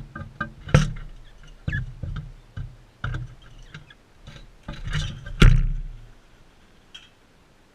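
A run of irregular knocks and taps close to the microphone, the loudest about a second in and about five and a half seconds in, fading out near the end.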